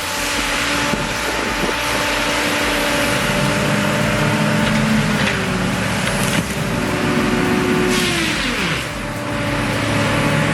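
Engine of a heavy tree-work machine running steadily, its revs dropping about eight and a half seconds in.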